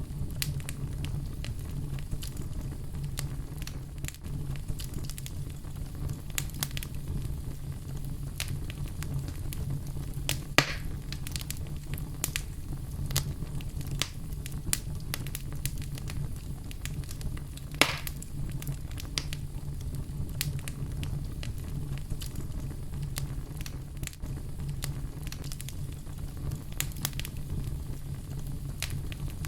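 Wood fire burning in a fireplace: a steady low rush of flames with frequent small crackles, and two sharper pops, about ten and about eighteen seconds in.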